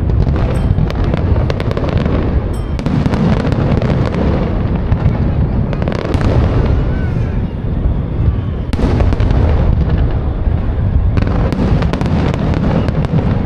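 Aerial fireworks going off without pause: a dense low rumble of shell bursts with rapid crackling on top, the crackle thinning briefly midway and picking up sharply again about nine seconds in.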